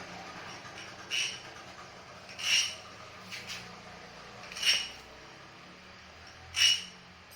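Four ringing metal-on-metal strikes, spaced a second or two apart.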